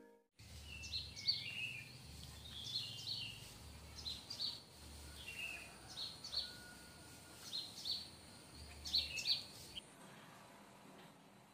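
Small birds chirping: many short, quick chirps and twitters that stop near the end.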